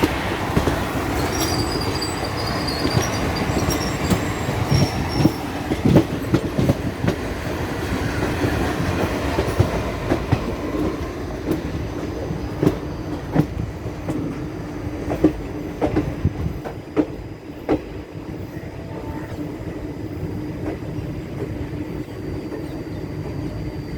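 Electric multiple unit (EMU) local train running on the track: a continuous rumble with repeated clacks of wheels over rail joints and brief high wheel squeals in the first few seconds. The sound eases off somewhat in the last third.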